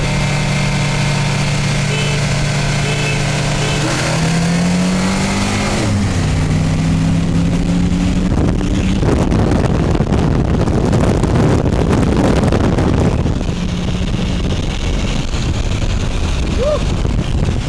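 Turbocharged 2004 Mitsubishi Lancer Ralliart's 2.4-litre four-cylinder, heard from inside the cabin under way. The engine note rises about four seconds in and drops at a gear change around six seconds. A louder rush of acceleration follows from about nine to thirteen seconds, then it eases off.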